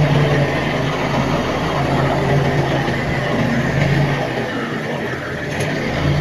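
Heavy diesel engine of earthmoving machinery running, its pitch rising and falling a little under changing load, with a steady mechanical rumble.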